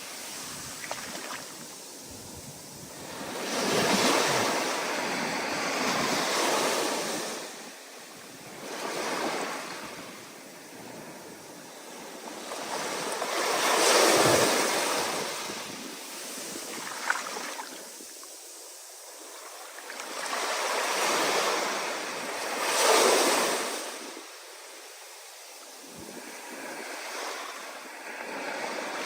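Ocean surf in a rising storm: waves breaking and washing in, swelling and fading every few seconds.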